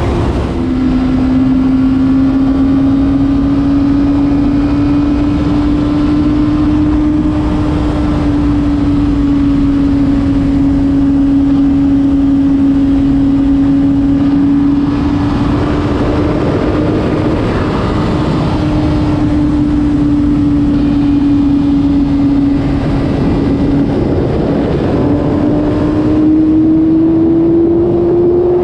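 Honda CBR600RR's inline-four engine holding a steady high-revving note at a near-constant throttle, with wind rushing over the microphone. The pitch drops just at the start and climbs again near the end as the revs rise.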